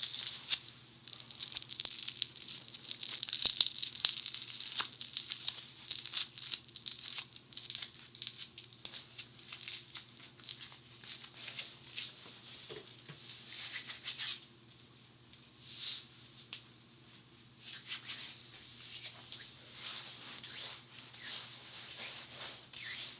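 Funny Foam crackling and squishing right against a dummy head's ear microphone. It is a dense fizzy crackle for the first several seconds, then thins to scattered crackles, going almost quiet for a few seconds past the middle before soft crackles return.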